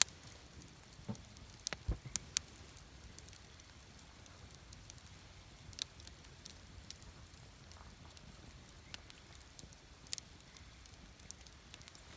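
Wood campfire burning, with faint scattered crackles and pops; a few sharper pops come close together about two seconds in.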